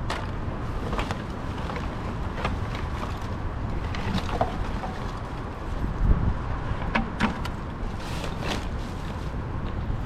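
Steady low rumble of wind on the microphone, with scattered short clicks and rustles throughout.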